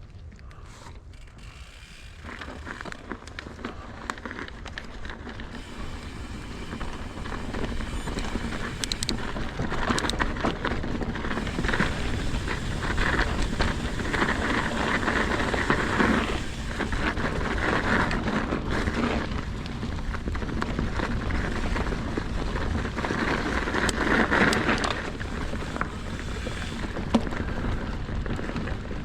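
Mountain bike being ridden over a frozen dirt trail: a steady rush of tyre noise with wind rumbling on the action camera's microphone and scattered clicks and rattles from the bike. It grows louder over the first ten seconds or so as the bike picks up speed.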